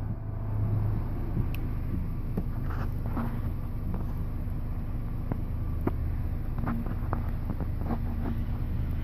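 Double-stack intermodal freight train rolling past: a steady low rumble with scattered clicks from the wheels on the rails.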